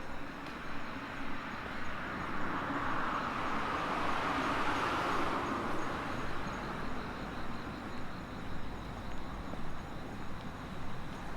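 A vehicle passing by, its noise swelling to a peak about four to five seconds in and then fading away. Insects chirr steadily in the background.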